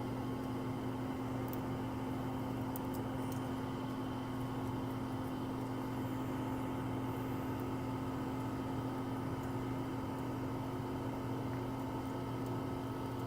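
Vacuum pump of an LCD screen-separator machine running with a steady hum, its suction holding the phone display down on the heated plate.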